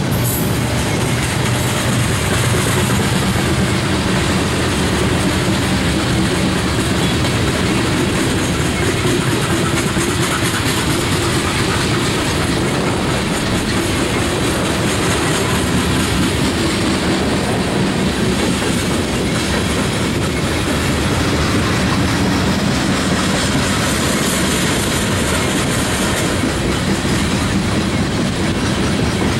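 Loaded coal gondolas of a unit freight train rolling past at close range: a steady, loud rumble and clatter of steel wheels on the rails.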